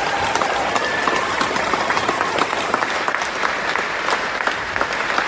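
Concert audience applauding, dense steady clapping, with a few whistles early on.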